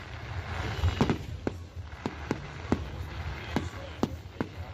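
Fireworks display: a string of sharp bangs from bursting shells, uneven, about two a second, over a low rumble.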